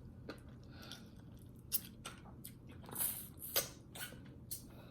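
Close-miked mouth sounds of someone eating: chewing and lip smacks, heard as a handful of short wet clicks at irregular intervals.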